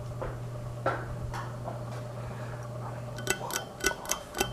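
Vintage Carroway ceiling fan motor humming steadily. Near the end comes a quick run of six or seven sharp metallic clinks as the pull chain is worked to switch the fan to high speed.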